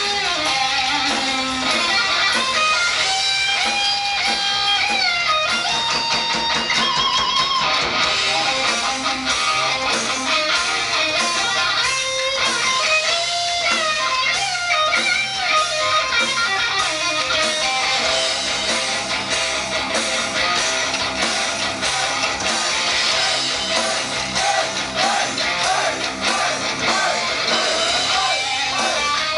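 Live band music: electric guitars strumming and a melodic lead line moving over a dense, steady backing.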